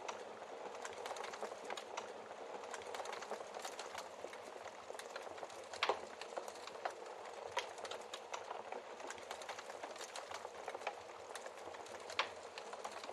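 Wood fire crackling steadily, with frequent small snaps and a few sharper pops from the burning logs, the loudest about six seconds in and another near the end.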